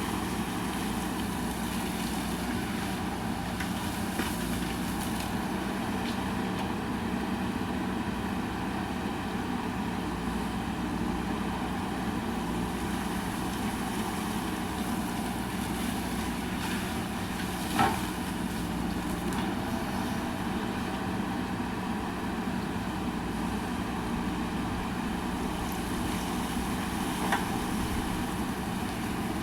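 JCB backhoe loader's diesel engine running steadily at work, with two sharp knocks, one about two-thirds of the way through and a fainter one near the end.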